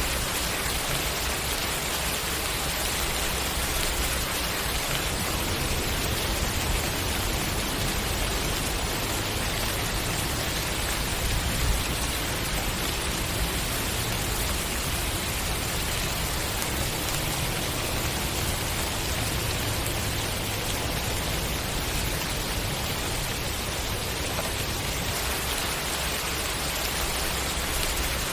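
Steady rain falling, an even dense hiss of many drops on surfaces.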